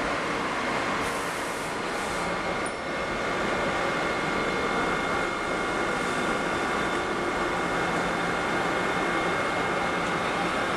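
NJ Transit passenger coaches rolling slowly past along a platform track: a steady rumble of wheels and running gear with a few held high tones over it.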